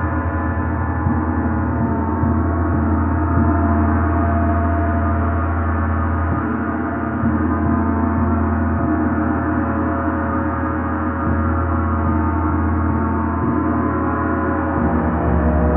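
A gong played continuously: a dense, sustained wash of many overtones, its low hum shifting in strength a few times as it is kept sounding.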